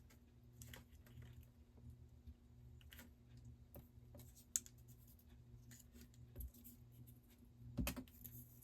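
Faint, scattered taps and clicks of paper embellishments and stickers being handled and pressed down on a craft table, with a sharp tick about four and a half seconds in and a louder knock near the end.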